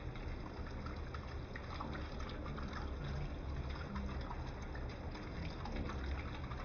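Chicken curry cooking in a pan: liquid bubbling with many small scattered pops, over a steady low rumble.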